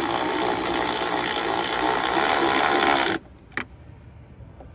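Cordless electric ratchet running, driving a bolt down, then stopping abruptly about three seconds in; a single short click follows.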